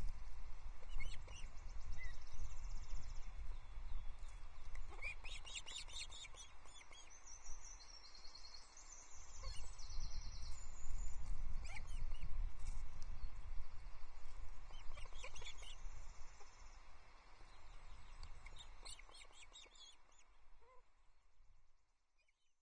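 Wind buffeting an outdoor nest-camera microphone as a low rumble, with bursts of high chirping bird calls every few seconds. The sound fades away near the end.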